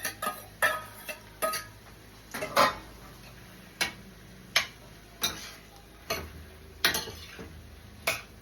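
A metal spoon knocking and clinking against a cooking pot at irregular intervals, about a dozen sharp strikes, some with a brief ring, as salt mackerel is stirred into the okra.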